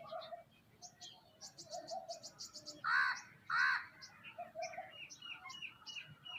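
Several birds chirping and calling together: a busy run of short high chirps, two loud harsh calls about half a second apart near the middle, then a quick string of short repeated notes toward the end.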